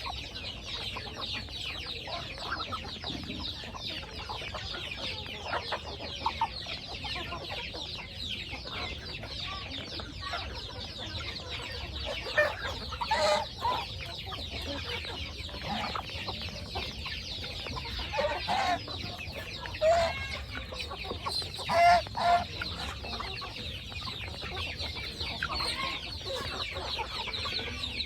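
Chickens clucking, with a few louder hen calls around the middle and again a little later, over a steady high chirping in the background.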